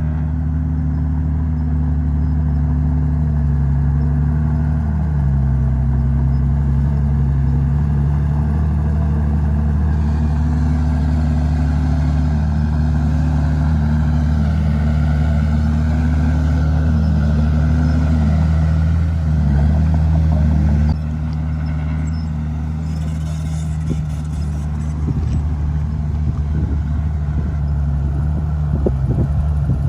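Komatsu D51PX bulldozer's diesel engine running steadily under load, its note wavering slightly up and down as it works. It gets a little quieter about two-thirds of the way through, with a few short clatters near the end.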